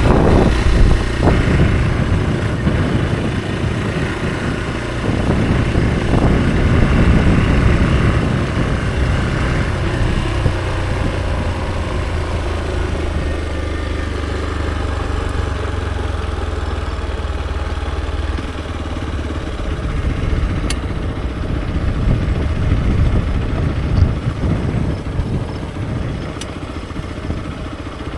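Hero XPulse 200 4V's single-cylinder four-stroke engine running during a ride. The pitch shifts with the throttle in the first seconds, holds steady through the middle, and the engine turns quieter near the end.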